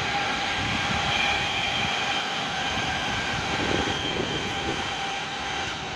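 Electric train of the JR Kobe Line running past: a steady running noise with a few steady high tones held over it.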